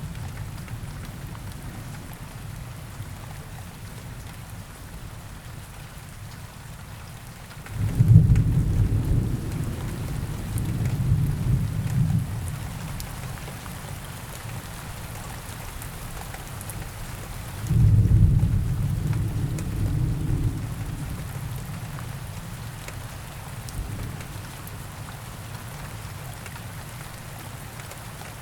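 Steady rain falling, with two rolls of thunder: a low rumble breaks in suddenly about eight seconds in and swells again a few seconds later, and a second one starts about eighteen seconds in and slowly fades.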